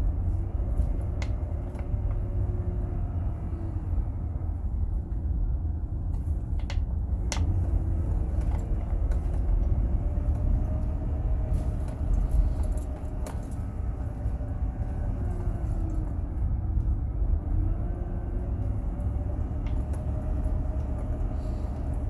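Van engine running and road rumble heard from inside the cabin as it moves slowly, a steady low rumble with small rises and falls in engine pitch and a few light clicks and rattles.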